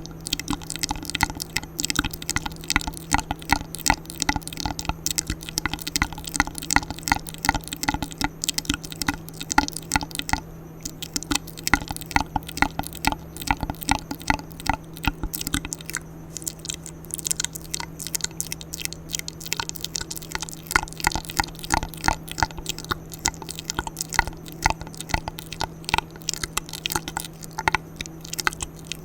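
ASMR mouth sounds: a rapid run of wet clicks and smacks made close to the microphone, several a second, with no pause.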